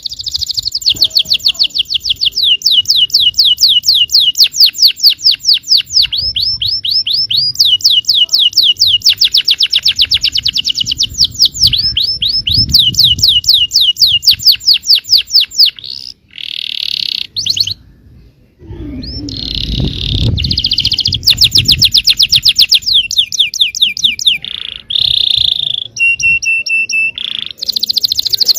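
Yellow domestic canary singing a long song of fast trills (rolls), each a rapid run of evenly repeated notes, broken by a few short pauses. Near the end it holds one steady note briefly.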